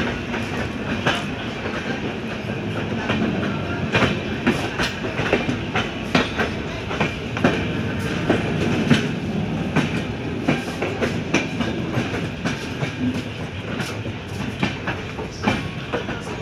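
LHB passenger coaches rolling past, a steady rumble with irregular sharp clacks of the wheels over the rail joints.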